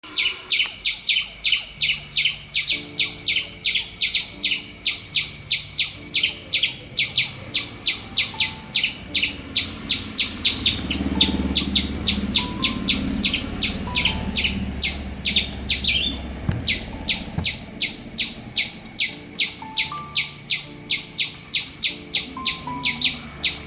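An animal's high chirping call, repeated very regularly about three times a second, over soft background music.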